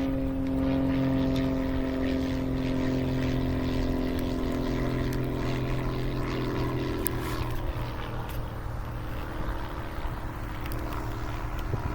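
Single-engine light propeller plane running with a steady pitched hum, which the spotter takes for a Cessna. The tone fades out after about seven seconds as the plane moves away.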